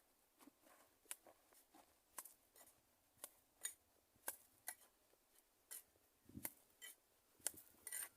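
Faint, irregular clicks and light scrapes, about one or two a second, like small objects being handled.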